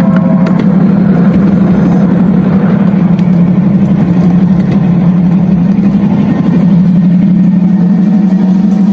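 Simulated diesel engine running steadily from a 1/8-scale CSX 200 locomotive's onboard sound system, with wheel and track noise. A horn-like chord cuts off right at the start.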